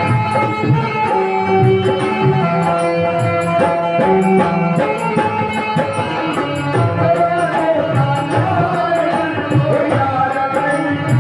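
Instrumental devotional music from a live jagran band: a steady hand-drum rhythm with regular high ticking percussion under sustained melody notes.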